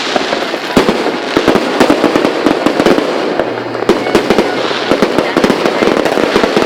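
Many fireworks going off at once: a loud, dense, continuous crackle of bangs and pops overlapping with no pause.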